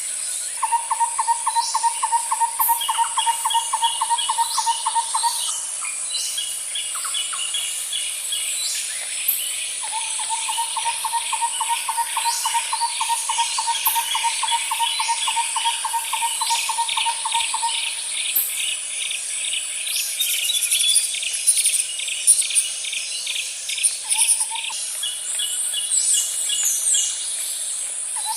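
Night-time nature ambience: a steady high insect buzz under many short chirping calls and rapid chirp series. A lower trill of fast, even pulses runs for about five seconds at the start, then again for about eight seconds from around ten seconds in, with a brief burst near the end.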